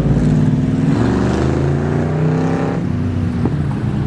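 Engines of classic cars cruising by at low speed. About a second in, one engine accelerates, its pitch rising for nearly two seconds before it settles back to a steady run.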